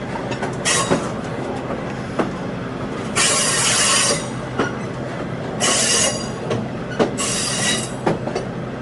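Train wheels squealing against the rail on a curve in four harsh, screeching bursts, each under a second, over a steady rumble of the cars rolling. Scattered sharp clicks and knocks from the wheels and rail joints.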